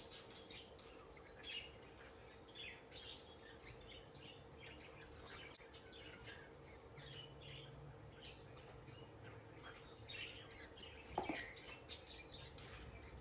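Faint, scattered high chirps of small caged birds, over a faint steady hum. A single knock about eleven seconds in.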